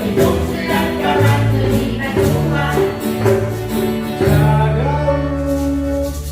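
Amateur group singing a song with instrumental accompaniment and a steady percussion beat of about four hits a second, which drops out near the end.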